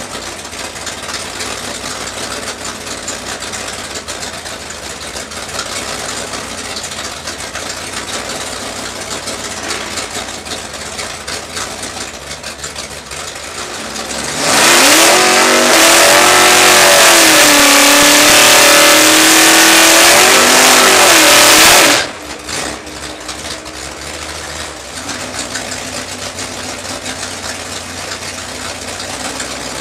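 Plymouth Duster drag car's engine heard from inside the cabin, running at low revs, then held at high revs for about seven and a half seconds in a burnout, the pitch wavering as the revs rise and fall, before it cuts off sharply back to a low run.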